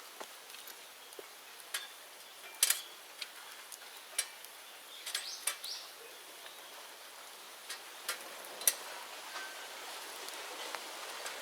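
Bonfire of cleared bamboo-grove debris crackling: irregular sharp pops and snaps over a steady hiss that grows slightly louder near the end.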